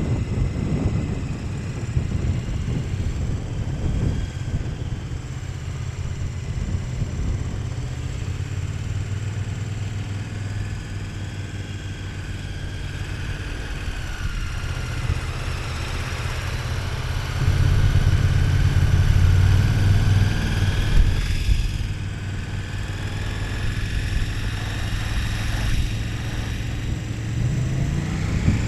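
KTM 1290 Super Adventure S's V-twin engine running under way, with wind and road noise. It gets louder for a few seconds past the middle, eases off, then rises in pitch near the end as the bike accelerates.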